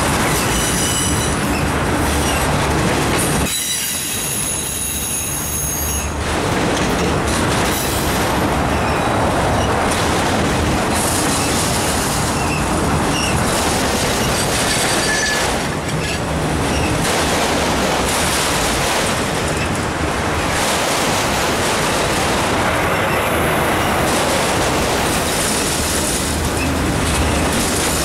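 Freight train of autorack cars rolling past close by: a steady rumble and clatter of steel wheels on rail. Brief high squealing from the wheels comes near the start and again about four seconds in.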